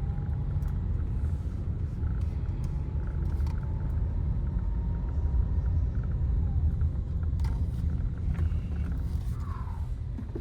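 Steady low rumble of a tunnel car wash's equipment heard from inside the car's cabin as it rides the conveyor, with a few faint clicks and tones over it.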